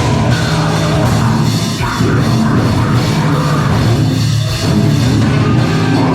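Live band playing loud heavy rock, with a drum kit and guitars going at full volume.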